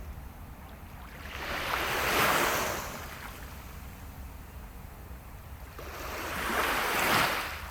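Waves washing onto the beach twice, each one swelling up and fading away, about five seconds apart, over a steady low rumble.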